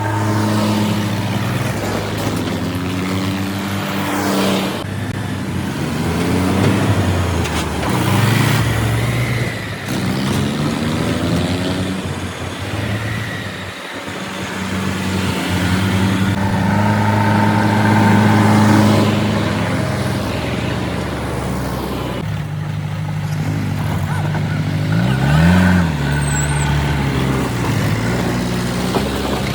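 Heavy diesel engines running hard under load, revving up and down again and again, with a sharp rise and fall in engine pitch near the end.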